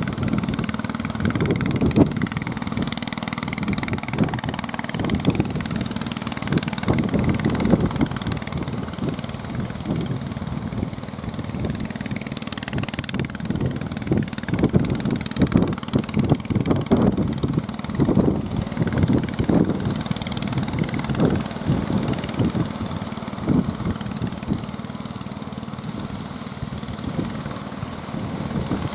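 Fishing boat engine running steadily, with uneven, gusty noise surging over it and easing off near the end.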